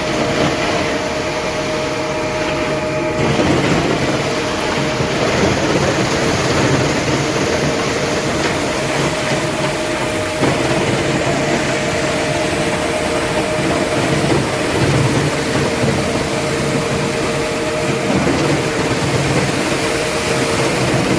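A machine running steadily and loudly, a constant hum under a rushing mechanical din that does not change.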